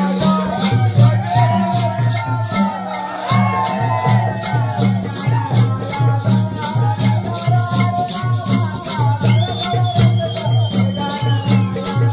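Folk music with a steady beat of low pitched drum strokes, a fast even rhythm of shaken or jingling percussion over it, and a wavering melody line.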